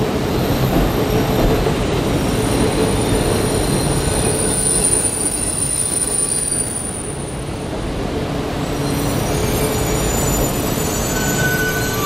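E4 series MAX double-decker Shinkansen moving slowly alongside the platform: a steady rolling rumble, with a thin high wheel squeal for a few seconds starting about two seconds in.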